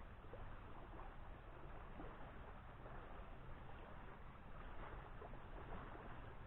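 Faint, steady wind noise on the microphone, with a few faint ticks.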